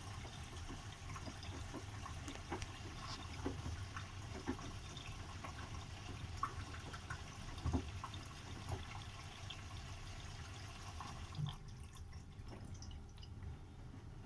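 Bosch washing machine on an easy-care 40 °C cycle: water splashing and dripping inside the drum over a steady low hum, with many small irregular ticks. A higher hiss drops out about three-quarters of the way through.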